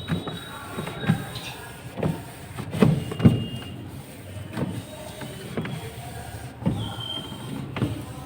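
Hand-cleaning a refrigerator compartment: a scouring pad or cloth rubbing over the plastic in irregular strokes, with knocks and a few short squeaks, the loudest knocks about three seconds in.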